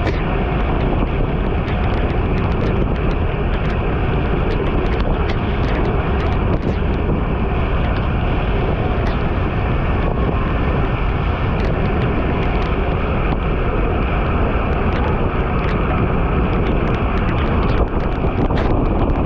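Wind rushing over the microphone of a camera moving at speed, a loud, steady roar with many small scattered ticks through it.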